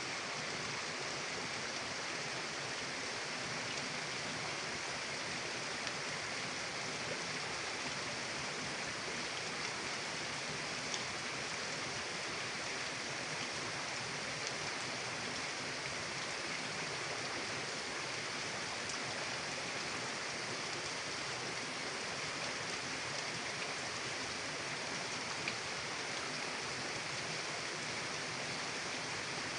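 Steady rushing of water, an even, unchanging noise.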